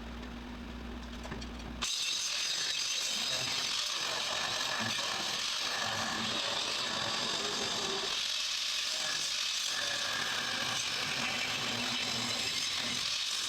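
A low steady hum that cuts off about two seconds in. It gives way to a power tool working metal on the undercarriage, a steady rasping, crackling noise.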